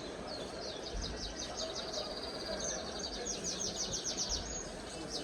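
A small cage songbird singing a fast series of high chirps, about nine a second, over a steady background hubbub.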